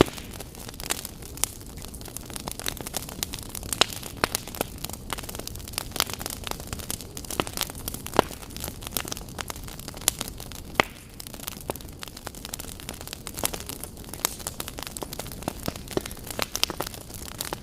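Wood fire burning in a fireplace: a steady low rush of flames with irregular sharp crackles and pops, some louder snaps scattered throughout.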